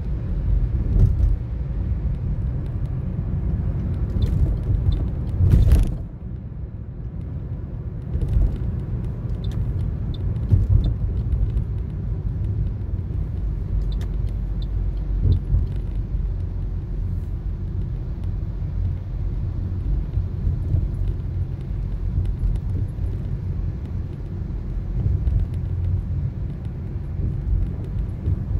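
Toyota Corolla driving, heard from inside the cabin: a steady low road and engine rumble, with a few brief knocks. The loudest knock comes about five and a half seconds in.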